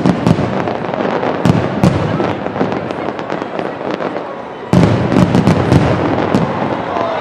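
Fireworks going off in rapid succession, many sharp bangs and crackles over a dense rumbling din, getting suddenly louder a little over halfway through.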